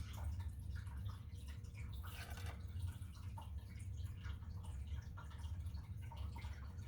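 A paintbrush working alcohol ink on Duralar plastic film: faint, irregular small taps and clicks over a steady low hum.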